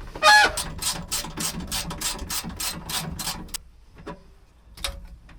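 Hand ratchet wrench clicking rapidly on a bolt, about five clicks a second, stopping after about three and a half seconds. Then two single knocks of metal tools.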